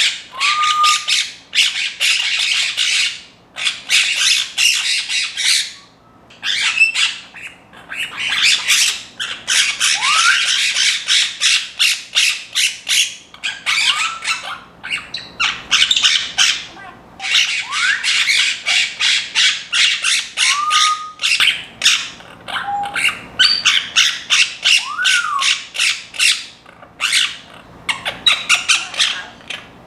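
Pet parrots, a Timneh African Grey and Quaker parrots, squawking in long rapid runs of harsh calls, broken by a few short rising whistles and brief pauses.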